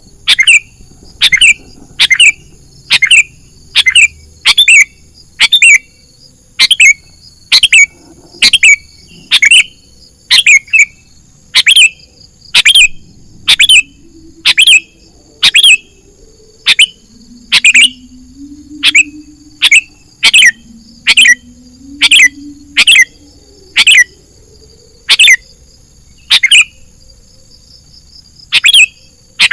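Sooty-headed bulbul (kutilang) calls: a short, loud, sharp call repeated about once a second in a steady series, as played for a bird-lure recording.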